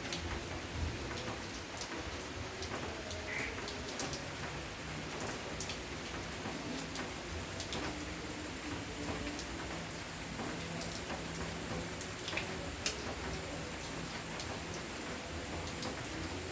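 Steady rain falling, with scattered sharp drops striking a surface.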